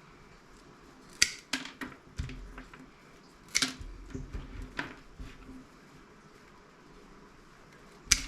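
Scrap parts from a dismantled CRT monitor being handled and set down: a scatter of sharp clicks and knocks, several in the first five seconds, then a quiet stretch and one more sharp knock near the end.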